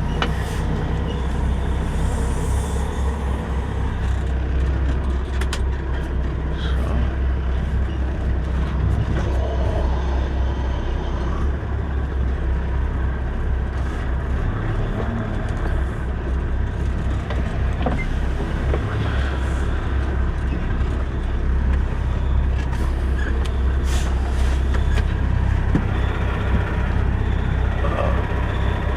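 Semi truck's diesel engine running at low speed, a steady low drone heard from inside the cab as the rig is maneuvered backing a trailer into a spot.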